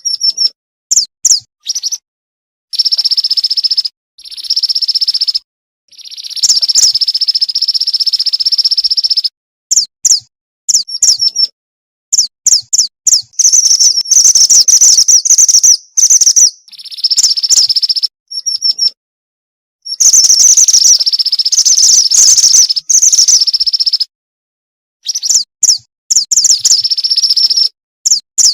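Female mantenan (pied bushchat) calling: fast trains of high, sharp chirps and buzzy notes, used as a lure to draw in males. The calls come in bursts of one to several seconds, each broken off abruptly by dead silence, as in an edited, looped recording.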